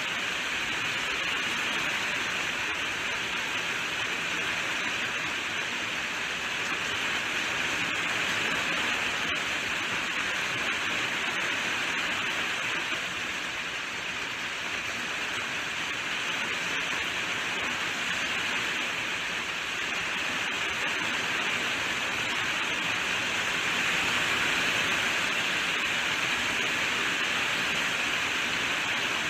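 Steady rainfall: an even, unbroken hiss of rain falling.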